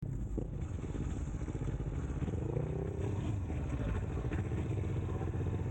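Motorcycle engine running steadily, with a brief rise and fall in engine pitch about halfway through.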